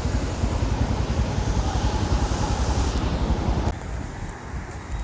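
Motorcycle riding noise: wind buffeting the microphone over engine and road noise. It drops off sharply about three and a half seconds in.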